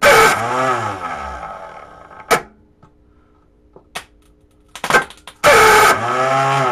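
10-horse Tecumseh small engine cranked by its electric starter in two bursts of about two seconds each, trying to fire but not catching, with a few clicks in the quiet between.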